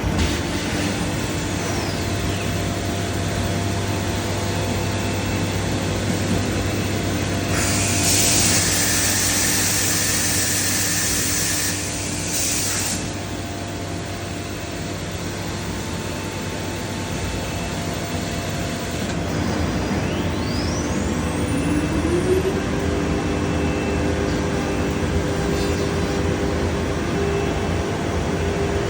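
Biesse Rover K CNC router running over a constant low hum: its spindle whine falls away in the first couple of seconds, a loud hiss runs for about five seconds in the middle, and then the spindle spins up with a rising whine that settles into a steady tone.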